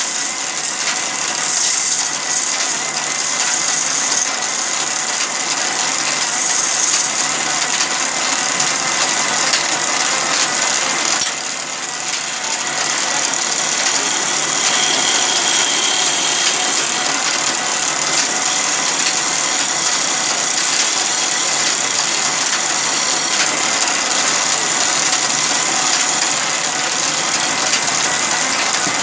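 Sawmill machinery running steadily, a dense mechanical noise with a brief click and a short dip in level about eleven seconds in.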